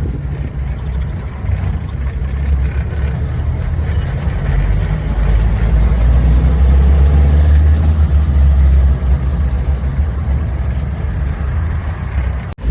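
1987 Suzuki Samurai driving, its engine running under way with road noise, heard as a steady low rumble that grows a little louder midway.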